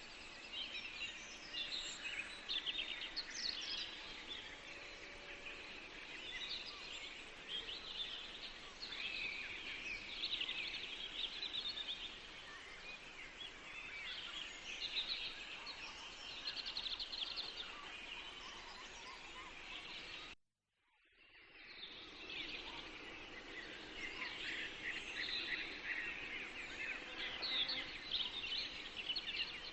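Many songbirds singing together in a forest, overlapping chirps and trills over a steady background hiss. About two-thirds of the way through, the sound cuts out for a moment and fades back in.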